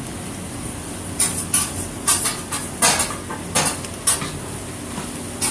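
Mushrooms and onions frying in a pan with a steady sizzle, while a metal utensil clinks and scrapes against the pan. The clinks come about a dozen times, starting about a second in.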